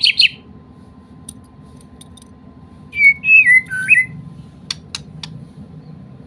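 White-rumped shama (Medan murai batu) singing: a rapid burst of chattering notes at the very start, then about three seconds in a short, loud whistled phrase of notes gliding up and down. A few sharp clicks fall between the phrases.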